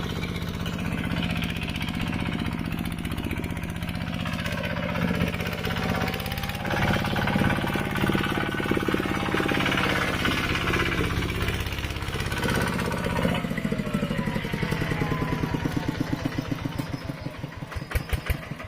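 A mini tractor's engine runs steadily under way. Toward the end it slows, and its separate firing beats become audible as they spread further apart.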